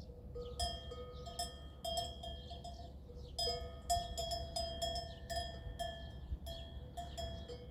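Livestock bell clanking irregularly with a ringing metallic tone, strikes coming in uneven clusters of a few a second, over a steady low rumble.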